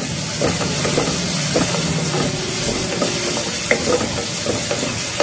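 Chopped onion and curry leaves frying in oil in a pressure cooker, sizzling steadily while a wooden spatula stirs them, with a few light scrapes and taps of the spatula against the pan.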